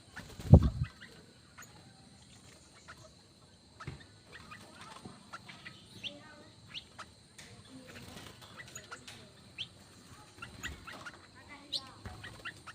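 Mixed aviary birds chirping and calling in short, scattered notes, with a loud low thump about half a second in.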